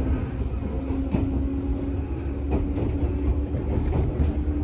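JR 651 series electric train running at speed, heard inside the carriage: a steady low rumble with a constant hum and a few irregular clacks of the wheels over rail joints.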